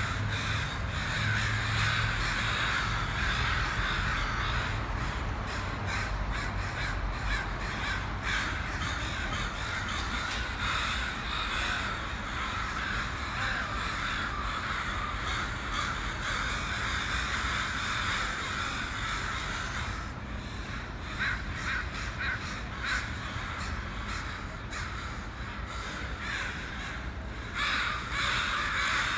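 A large flock of crows, around sixty birds, cawing continuously in overlapping calls. The calling thins out about two-thirds of the way through and swells again shortly before the end.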